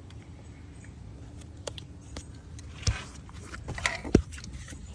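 A few short knocks and clicks, as of parts or tools being handled, over a low steady hum.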